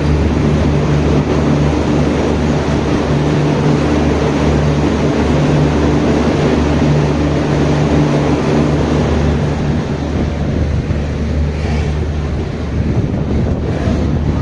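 Dony Polo Express passenger train running along the track: a steady, loud rumble with a low hum under it. The hum eases about ten seconds in.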